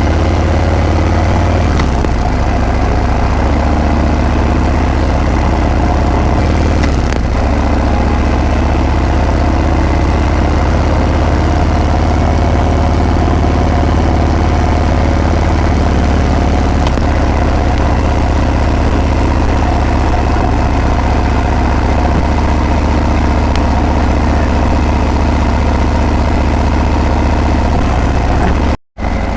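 Harley-Davidson Breakout's V-twin engine and exhaust running steadily with a deep, low beat. The sound cuts out for a moment near the end.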